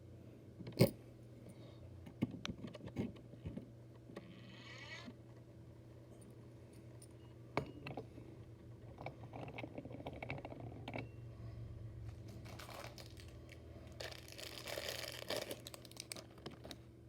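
Plastic bags crinkling and rustling as small diecast motorcycles are pulled out of them, with scattered light clicks and taps of the models being handled. The loudest sound is a sharp click about a second in, and a low steady hum runs underneath.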